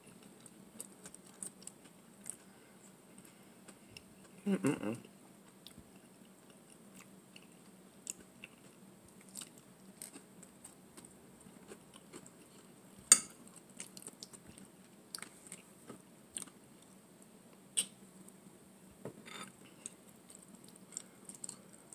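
Close-miked chewing of bow-tie pasta in sauce, with soft mouth sounds and scattered light clicks of a metal fork against a glass bowl. A short hum-like mouth sound comes about four and a half seconds in, and the sharpest click comes about halfway through.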